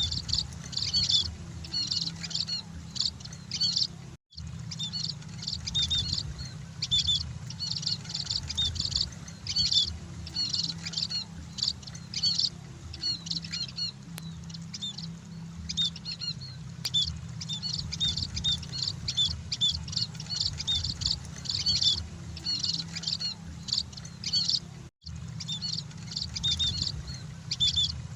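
Emprit (munia) birds chirping in quick clusters of short high notes, about one cluster a second, over a steady low hum. The sound drops out briefly twice, about four seconds in and near the end.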